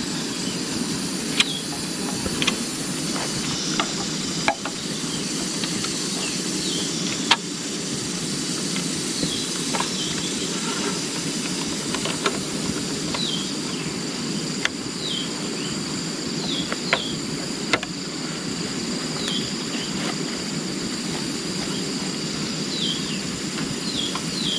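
Rainforest ambience: a steady hiss, a constant high insect drone, and short falling bird chirps repeated every second or two, with sharp single knocks now and then.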